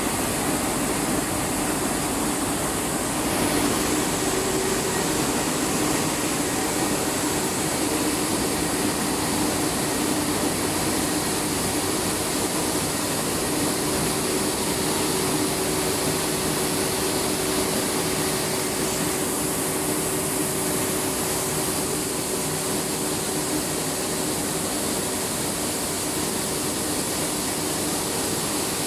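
Rice milling plant machinery running steadily: a constant mechanical rush of noise with a steady low hum, no change in speed or load.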